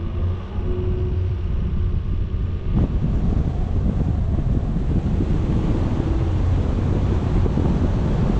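A vehicle's engine running steadily while driving, heard as a low drone, with wind buffeting the microphone. The wind noise grows stronger about three seconds in.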